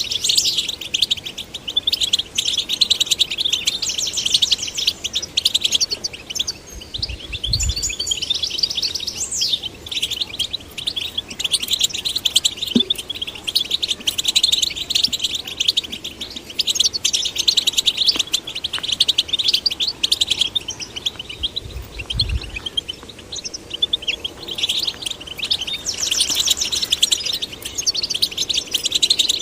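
European goldfinches singing: a continuous, busy twittering of rapid high chirps and trills. Two short low thumps come about a quarter of the way in and again about three-quarters of the way through.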